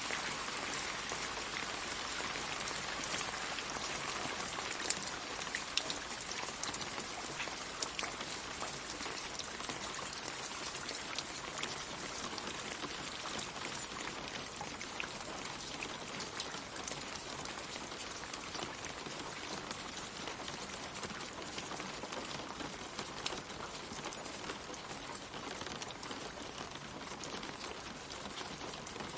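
Steady light rain pattering on leaves and the ground, with many fine individual drop ticks.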